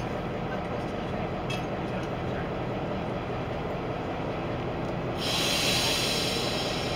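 Train running with a steady low rumble; about five seconds in, a loud hiss starts abruptly over it.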